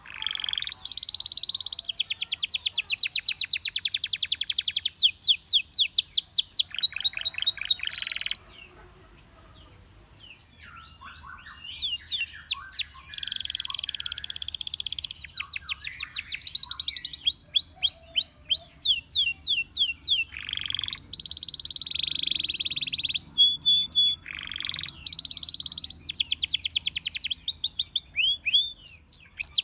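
Canary singing: fast trills of rapidly repeated whistled notes and rolls, with a break of about two seconds around a third of the way through before the song resumes.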